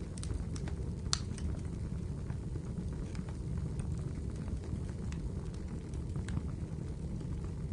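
Wood fire burning in a fireplace: a steady low roar with scattered crackles and pops, one sharper pop a little after a second in.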